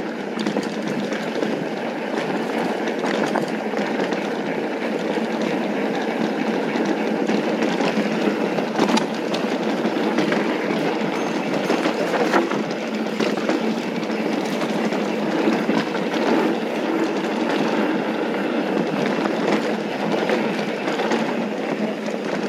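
Mountain bike rolling fast downhill on a rough dirt trail: tyres crunching over loose dirt and rocks, with the bike rattling and giving scattered sharp clacks over bumps.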